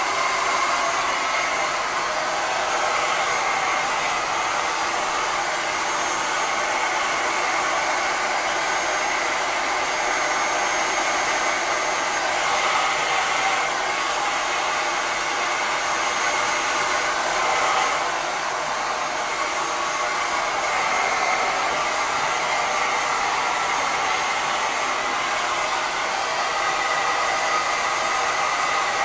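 Hair dryer running steadily on one setting, drying a freshly washed furnace filter: an even blowing noise with a faint held whine.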